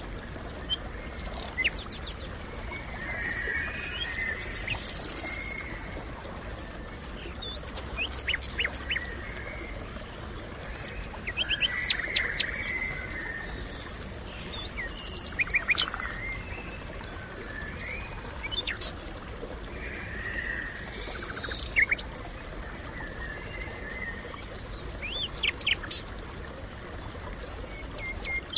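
Forest ambience: several songbirds chirping and calling, with quick chirp series, short trills and a few high whistles scattered throughout, over a steady low background hiss.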